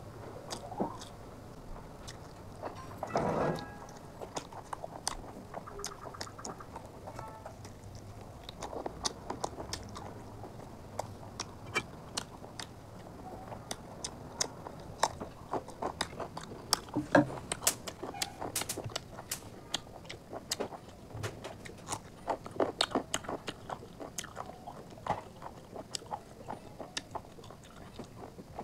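A person eating chicken curry and rice by hand: biting into and chewing chicken pieces, with many small sharp mouth clicks throughout and a brief louder mouth sound about three seconds in.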